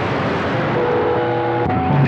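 CB radio receiver on 27.025 MHz giving out steady static between transmissions, with faint steady whistling tones from weak distant signals under the hiss.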